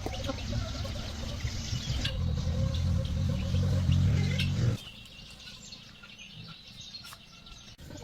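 Birds chirping over a low rumbling noise that stops suddenly about five seconds in.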